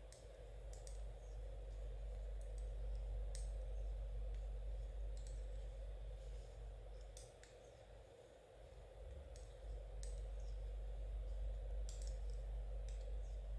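Knitting needles clicking and tapping against each other in an irregular rhythm as stitches are worked, over a steady low hum.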